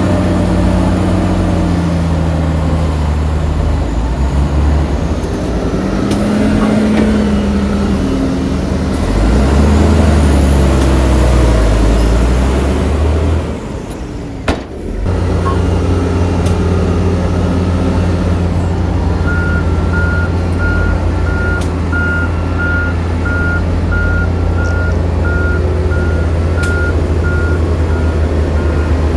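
Heavy diesel engine of earthmoving machinery running under load, revving up and down, then dipping briefly about halfway through. It then settles to a steady run while a reversing alarm beeps repeatedly, about two beeps a second, through the last third.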